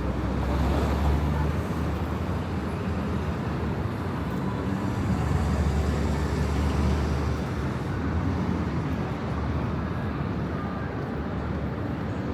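City street traffic: a steady low rumble of passing cars, swelling once near the start and again around the middle.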